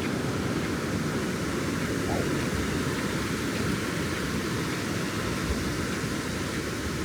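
Ocean surf breaking on the beach: a steady rush of wave noise with no single distinct crash.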